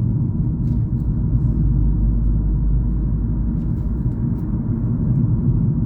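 Moving car's steady low road and engine rumble while driving.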